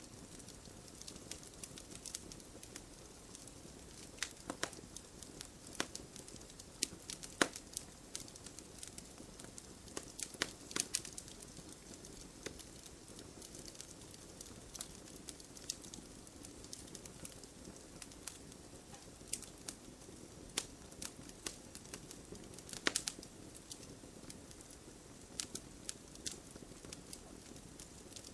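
Wood fire burning: a steady low rush of flames with irregular sharp pops and crackles of burning wood, a few louder snaps and small clusters of them.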